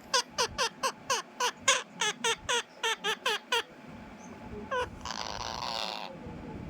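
A small animal squeaking rapidly in short, pitched, hooked squeaks about four a second, which stop about three and a half seconds in. One more squeak follows, then a breathy, rasping noise near the end.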